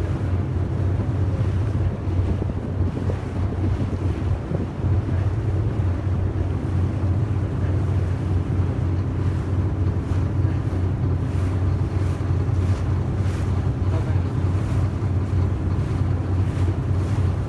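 Steady low drone of a yakatabune's engine under way, with wind buffeting the microphone and water rushing along the hull.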